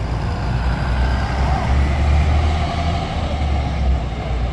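Steady low rumble of a heavy road vehicle's engine in city traffic.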